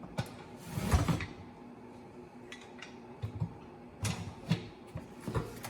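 Metal clutch discs and floater plates being handled and fitted together, giving a few light clinks and short scraping sounds. The most distinct come about a second in and again around four seconds.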